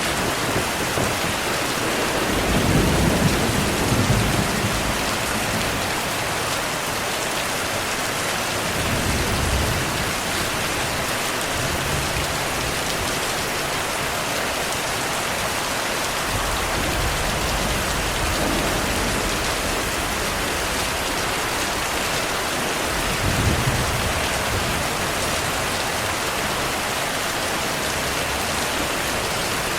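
Steady heavy rainfall with several low rumbles of thunder rolling under it; the loudest rumble comes a few seconds in, and fainter ones follow later.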